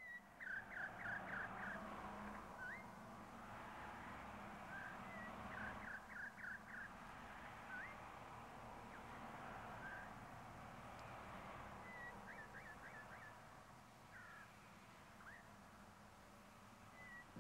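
Faint bird calls: quick trills of four or five chirps and single rising whistle notes, repeated every few seconds over a steady low hiss of outdoor ambience.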